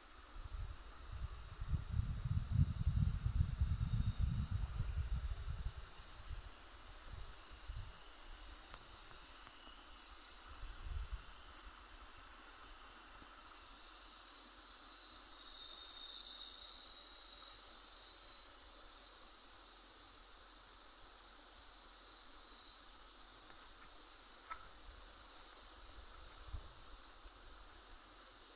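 Insects chirring outdoors: a steady, high-pitched chorus that pulses faintly. A low rumble on the microphone is loudest in the first few seconds.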